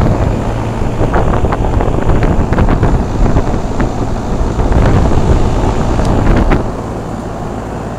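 Two Carrier central air-conditioner condensing units running outdoors, their fans blowing, under a loud, uneven wind rumble on the microphone. The rumble eases about two-thirds of the way in.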